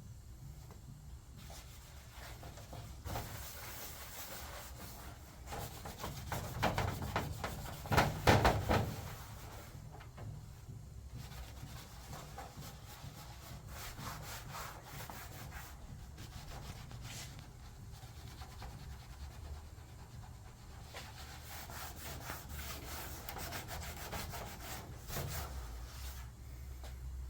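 Repeated hand rubbing or scrubbing strokes on an aluminum body panel, with a louder burst of rubbing about eight seconds in.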